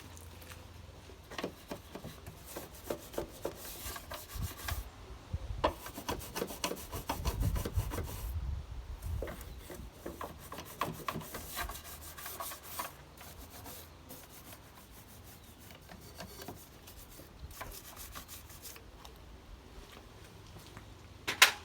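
Detailing brush scrubbing engine-bay surfaces in quick, irregular strokes of bristles, busiest in the first half and lighter later, with one sharp knock just before the end.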